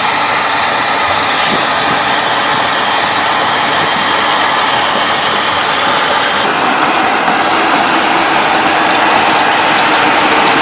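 Steady running noise of a heavy truck on the move, with a short high hiss about a second and a half in.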